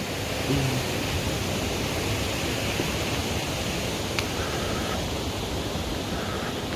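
A steady, even rushing hiss of water, with a single faint click about four seconds in.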